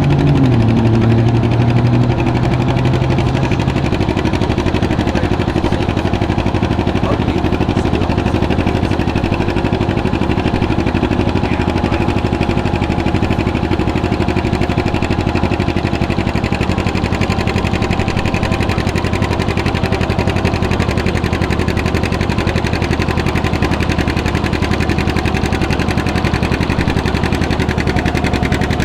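Tractor engine coming down from higher revs in the first second or two, then idling steadily with an even, rapid firing beat.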